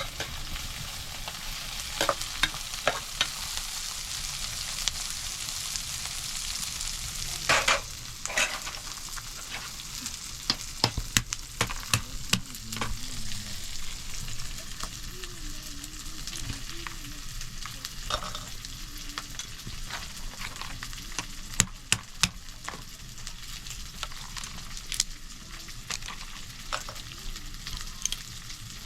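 Food frying in a pan: a steady sizzling hiss with scattered sharp clicks and knocks, as of stirring.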